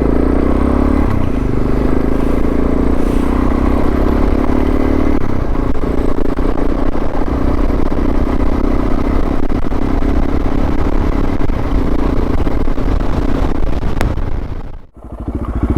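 Suzuki DR650's single-cylinder four-stroke engine pulling away, rising in pitch in the first second, then running steadily under way. The sound drops out briefly near the end and comes back.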